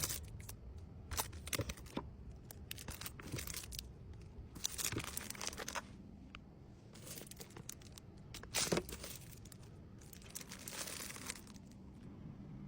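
Packaging and small items being handled: short bursts of crinkling and rustling with light clicks and taps, a second or two apart, fairly quiet.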